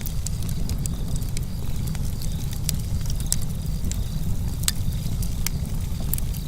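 Campfire burning, with a deep rumble from the burning wood and irregular sharp crackles and pops from the logs. Crickets chirp steadily and faintly behind it.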